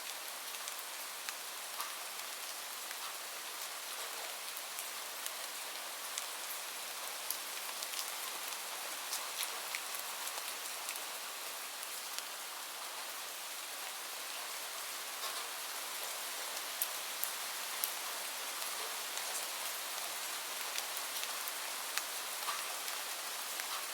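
Gentle rain falling steadily, with scattered sharp pops and ticks from a crackling wood fire.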